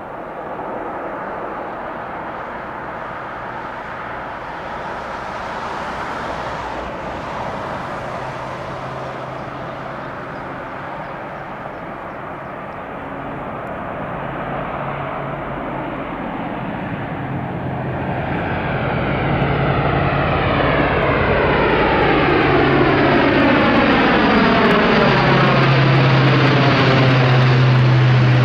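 Airbus A400M's four turboprop engines at high power with a steady low propeller drone, growing steadily louder, typical of the aircraft's takeoff run. From about two-thirds of the way through, a sweeping, phasing whoosh joins the drone as the aircraft draws closer.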